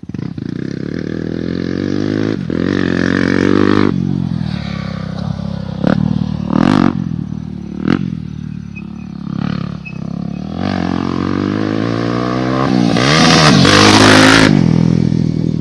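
Motocross bike engine revving hard, its pitch repeatedly climbing and dropping as the rider works the throttle and gears, loudest about thirteen seconds in.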